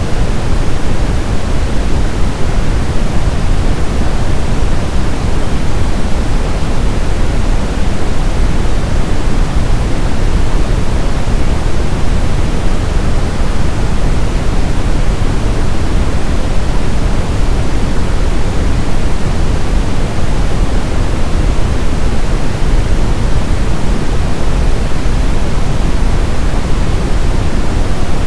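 Brown noise: a steady, loud, deep rushing hiss with its weight in the low end, unchanging throughout.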